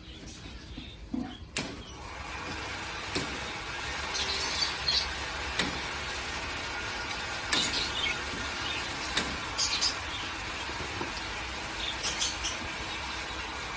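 Budgerigars chirping in short high bursts over a steady background hiss, with a few sharp clicks.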